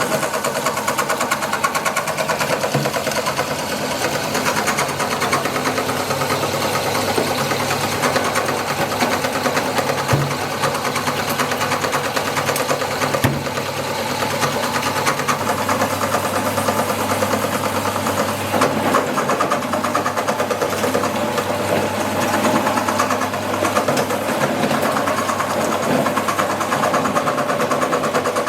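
Motorized meat grinder running steadily while grinding chicken, a continuous machine sound without pause.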